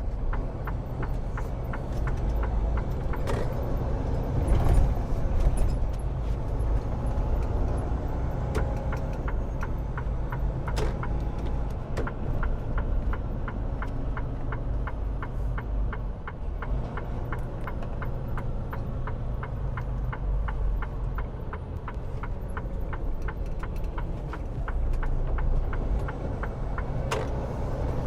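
Semi truck's engine running low under a steady, even ticking, most likely the turn signal clicking as the truck swings wide through a tight corner.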